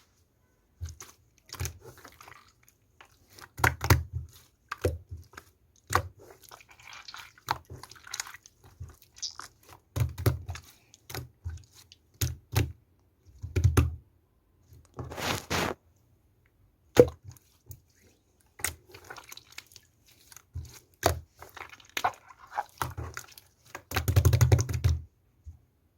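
Slime being squished, pressed and stretched by hand: irregular sticky pops, clicks and crackles, with a few short low thuds.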